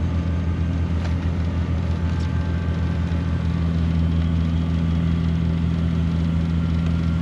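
An engine running steadily at idle with a low, even hum; a slightly higher tone in the hum grows stronger about three and a half seconds in.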